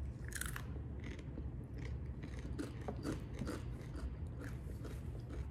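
Someone biting into and chewing a crunchy snack close to the microphone during a salsa tasting, with many short, irregular crunches.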